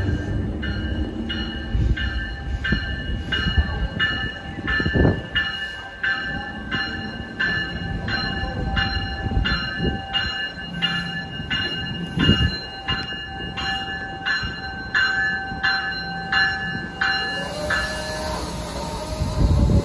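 NJ Transit multilevel commuter train passing along the Northeast Corridor, its warning bell ringing steadily about twice a second over the rumble of the wheels on the rails. Near the end the bell stops and a steady whine comes in as the cars go by close up.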